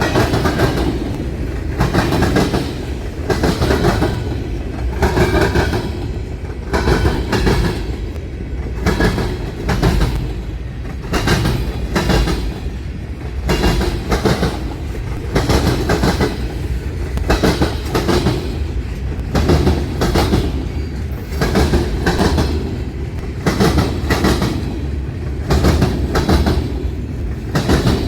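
Freight cars of a Union Pacific manifest train rolling past, their wheels clacking in pairs over the rail crossing diamond and joints, over a steady rumble of the train running.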